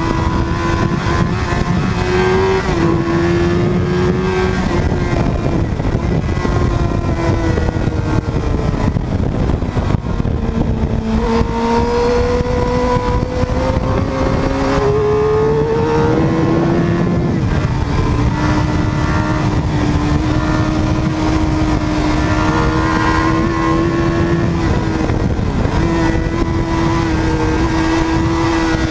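Suzuki GSX-R 750 inline-four engine running under way. Its note falls around ten seconds in and then rises again over several seconds, holding fairly steady for the last ten seconds or so.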